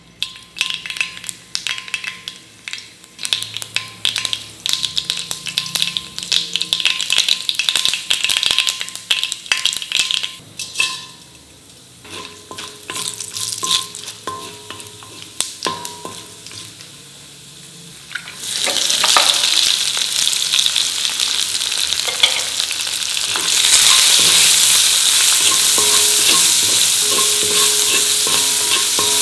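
Mustard seeds crackling and popping in hot oil in a wok, a dense run of sharp pops. This is followed by quieter spatula stirring of urad dal, Bengal gram and cashews, then a loud steady sizzle from about two-thirds of the way in, as sliced shallots and garlic are sautéed.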